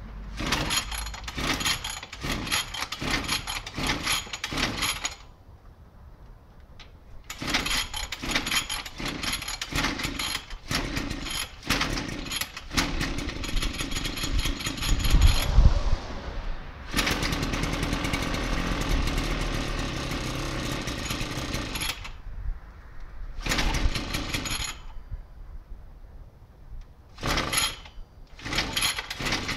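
Small 33cc two-stroke pocket bike engine being started cold: it fires and sputters in short bursts with quiet gaps between. About two-thirds of the way in it runs steadily for roughly five seconds, then dies and sputters again. This is a hard-starting engine that needs warming up.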